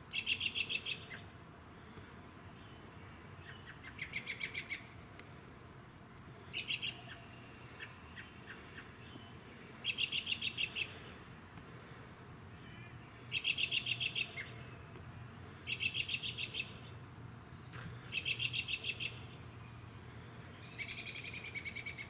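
A songbird singing a series of short, rapid trills, each about a second long and repeated every two to three seconds, about eight in all.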